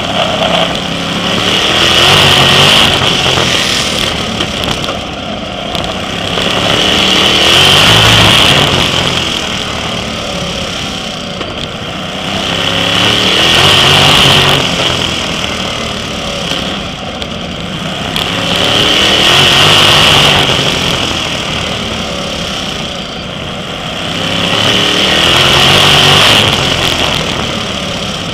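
Sprint car engine at racing speed on a short oval, swelling and easing in loudness and pitch about every six seconds as it goes on and off the throttle through the straights and turns.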